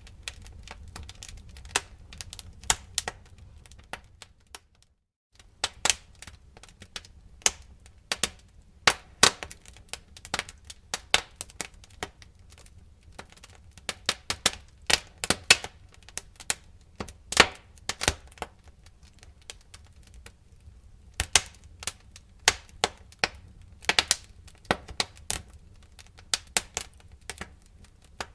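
Wood fire crackling: irregular sharp pops and snaps, several a second at their busiest, over a low steady rumble of the flames. The sound drops out for under a second about four and a half seconds in, then resumes.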